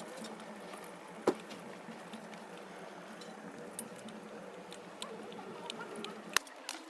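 Steady background noise with scattered small clicks and knocks; two sharper knocks stand out, about a second in and near the end.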